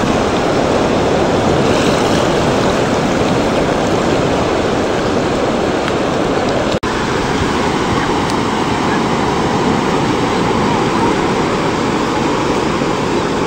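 Ocean surf washing steadily onto the beach, a continuous loud rush, broken by a split-second dropout about seven seconds in.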